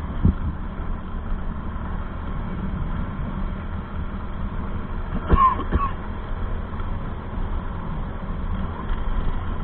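Steady low rumble of a vehicle engine, with a brief high chirp about five seconds in.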